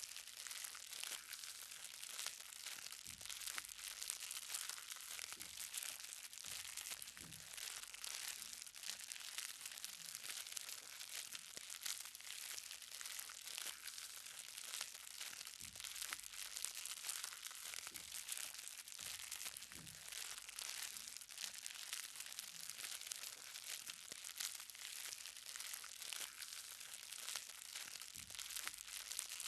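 Light rain, small drops pattering on the ground in a dense, steady crackle, with a few soft low thuds now and then.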